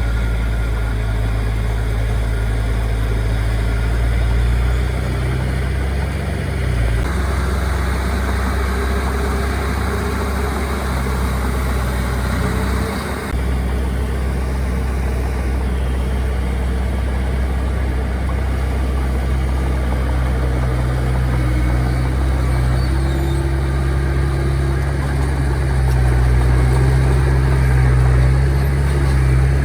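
Diesel engines of earthmoving machinery running steadily with a deep drone. The sound shifts abruptly about seven and thirteen seconds in.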